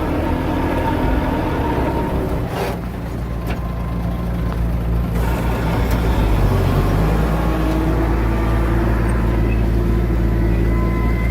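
Heavy diesel earthmoving machinery running steadily with a low engine rumble, easing off briefly a few seconds in and then building back up.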